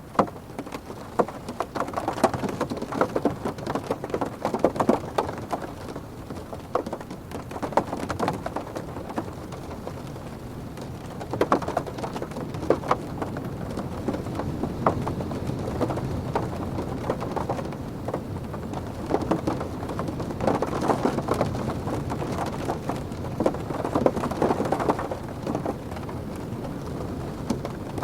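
Rain pattering on a car's roof and windows, heard from inside the cabin: a dense, muffled drumming of drops that comes in heavier spells and eases between them.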